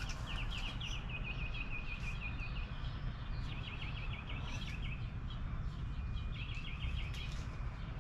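A small bird singing in several bouts of rapid, quick-fire chirps, over a steady low rumble of background noise.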